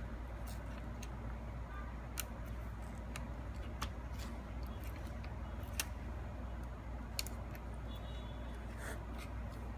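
Small sharp clicks and taps of plastic laptop parts and screws being handled during disassembly, a few scattered over several seconds, over a steady low hum.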